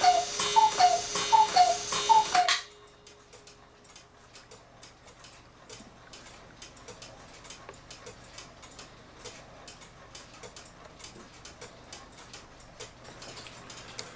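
Cuckoo clock with an August Schwer movement calling its last few cuckoos, each a two-note falling whistle with bellows hiss, stopping about two and a half seconds in. The double-pendulum movement then ticks steadily and much more quietly, now running evenly after its pendulum wire was remade.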